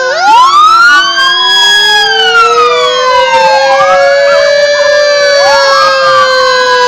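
Several emergency-vehicle sirens wailing at once, loud, their tones rising and falling out of step with one another, with one starting a fresh rising sweep right at the start.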